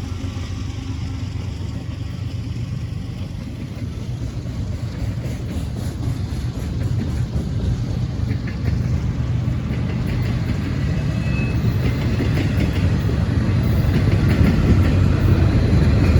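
CSX freight train led by a GE ES40DC diesel locomotive approaching: a low diesel rumble growing steadily louder, with faint clicks in the second half.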